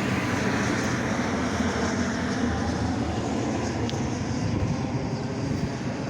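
Steady rumbling vehicle noise with no distinct events.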